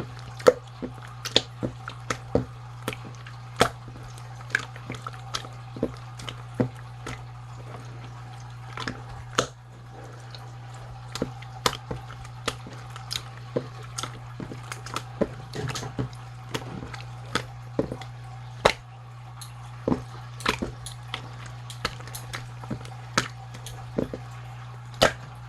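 Slime being squeezed and poked, making irregular wet popping clicks, about two or three a second, over a steady low hum.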